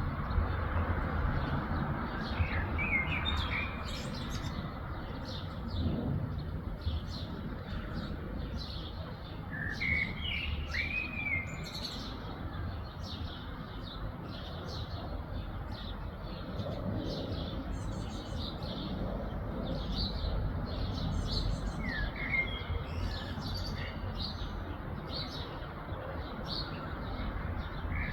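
Several birds chirping and calling: a dense run of short, high chirps throughout, with a few lower, sliding whistled calls now and then. A steady low background rumble runs underneath.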